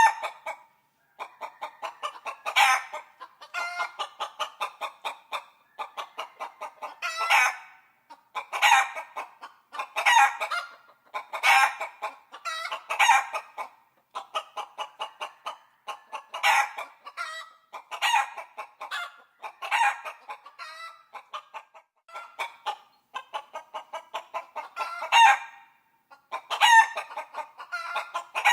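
Chickens clucking, quick runs of short clucks broken every second or two by louder calls, with no bass, as if re-recorded through a small device speaker.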